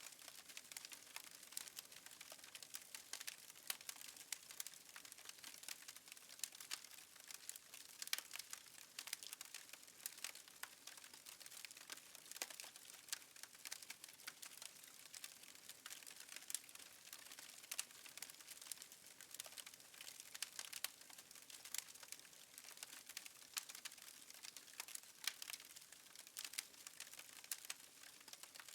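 Wood fire in a fireplace crackling softly: many small irregular pops and snaps over a faint hiss.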